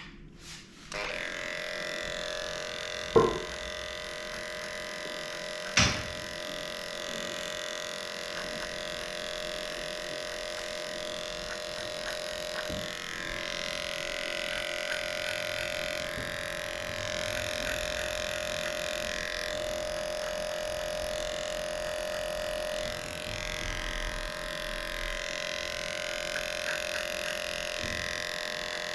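Electric dog grooming clippers with a 10 blade switch on about a second in and run with a steady hum, clipping a matted coat. Two sharp knocks, at about three and six seconds, are the loudest sounds.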